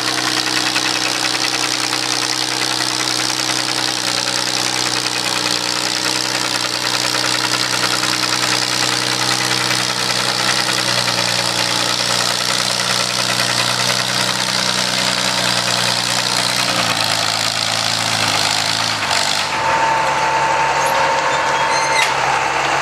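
Antique farm tractor engine running steadily at high revs, then dropping in pitch in steps near the end as it is throttled back.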